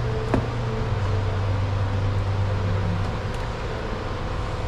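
Steady low mechanical hum, dipping slightly in pitch for a couple of seconds, with one sharp click about a third of a second in.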